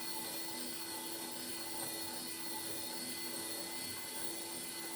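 Working model five-cylinder radial aeroplane engine turned over by its small electric motor, running with a steady whir and hum as the propeller spins and the pistons go up and down.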